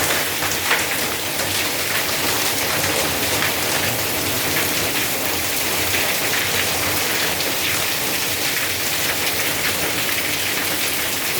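Heavy rain mixed with hail pelting down: a dense, steady hiss with many small sharp hits of individual stones.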